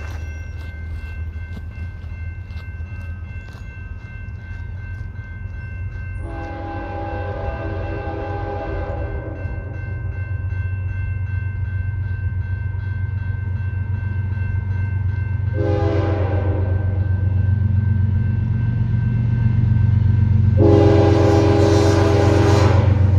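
Canadian Pacific GE ES44AC diesel locomotives approaching, their engine rumble growing steadily louder. The air horn sounds three times: a long blast about six seconds in, a short one a little past the middle, and another long blast near the end.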